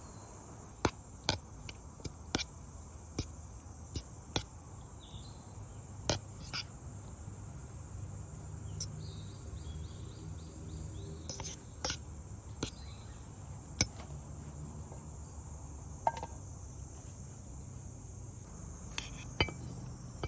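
Steady high-pitched drone of insects, with a dozen or so sharp clicks and taps scattered through it.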